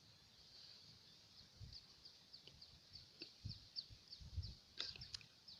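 Faint bird chirping: a run of short, high notes, each falling in pitch, about three or four a second, with a few soft low thumps underneath.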